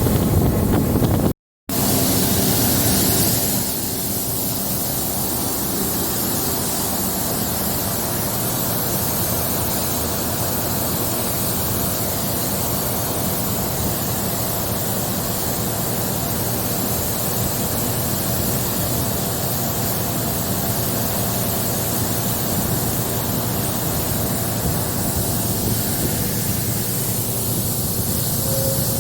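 A moving DEMU diesel train heard from on board: a steady rush of wind buffeting the microphone over the rumble of wheels and engine. The sound cuts out briefly about a second and a half in.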